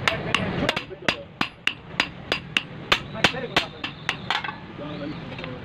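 Hand hammer beating a steel toka (chaff-cutter) machine blade during repair: a steady run of ringing metal-on-metal blows, about three a second, that stops about four and a half seconds in.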